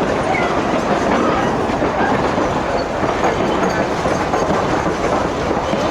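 Durango & Silverton narrow gauge passenger train running along the track, heard from aboard: a steady, loud rumble and rattle of wheels and cars.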